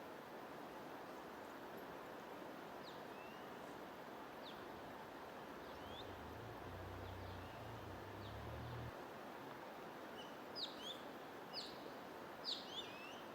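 Small songbirds chirping in short, quick sweeping notes over a steady rushing noise like flowing water. The chirps are sparse at first and become frequent and louder from about ten seconds in. A low hum sits under the noise for a few seconds and cuts off abruptly.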